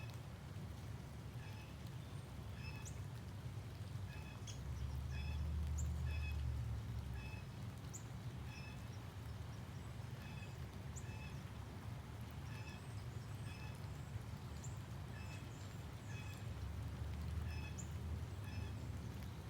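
Birds calling: a short call repeating about once a second, with scattered sharp, higher chirps, over a low rumble of wind that swells twice.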